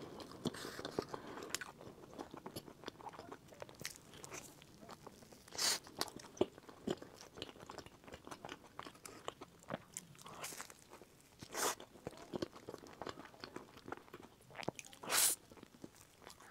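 Close-miked chewing of a crispy fried vegetable fritter, with small wet clicks and several louder crisp crunches a few seconds apart as fresh bites break the fried crust.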